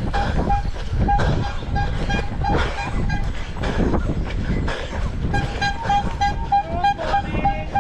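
A runner's steady footfalls, about two steps a second, with breathing and rubbing noise on the moving camera. A short high tone repeats about three times a second over it, mostly in the second half.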